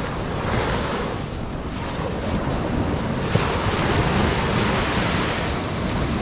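Ocean surf breaking and washing up the beach in repeated surges, with strong wind buffeting the microphone.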